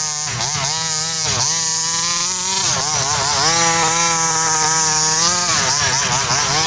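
Small two-stroke petrol engine of a 1/5-scale RC Baja buggy, a Rovan 30.5cc, revving up and down several times, then held at a steady high pitch for a couple of seconds before dropping off near the end.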